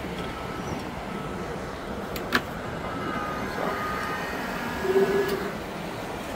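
Bucket truck's hydraulic boom system running with the diesel engine powering it: a steady hum, a single sharp click about two and a half seconds in, and a thin whine from about three seconds in.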